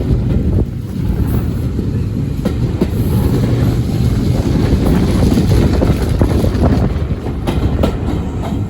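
Heritage railway carriage running along the track: a steady low rumble with a few sharp clicks as the wheels pass over rail joints.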